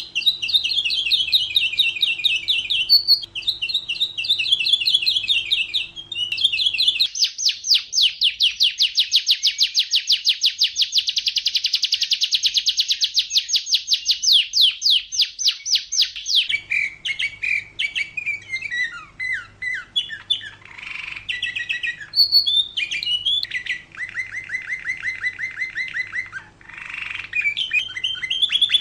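Domestic canary singing a long, continuous song of rapid trills. In the middle it holds one very fast, high trill for about nine seconds, then changes to lower repeated-note rolls.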